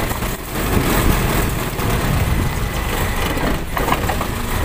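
Toyota Kijang Super's carburetted four-cylinder petrol engine running with the throttle opened slightly, sputtering unevenly instead of revving cleanly, as if about to stall. This is the misfire the owner is chasing through the plugs, plug leads and carburettor.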